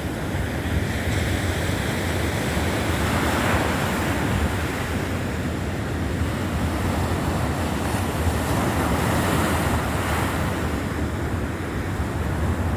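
Baltic Sea surf breaking and washing onto a sandy beach, swelling up twice, with wind rumbling on the microphone.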